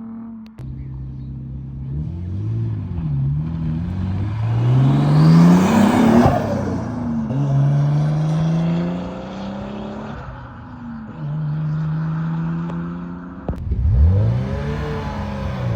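Car engines revving and accelerating away one after another, their pitch rising and falling with each blip of the throttle. The loudest car revs up and passes about five to six seconds in. The sound changes abruptly near the start and again near the end, as one car's engine gives way to another's.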